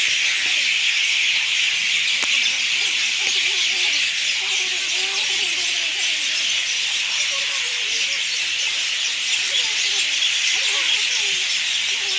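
A steady, loud high hiss, with faint wavering sounds beneath it in the middle.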